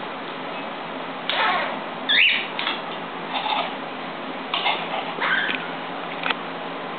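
Pet bird calling: a run of short, harsh squawks and one quick whistled glide, over a steady hiss.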